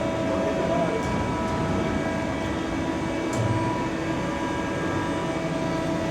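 Steady whirring hum of workshop machinery, with several steady whining tones running through it. A short low bump with a faint click comes about halfway through.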